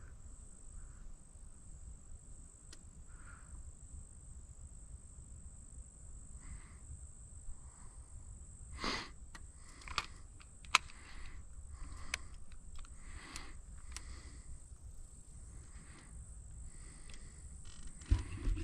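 Steady high-pitched insect drone, crickets or katydids, running without a break. A few sharp clicks and knocks fall about halfway through.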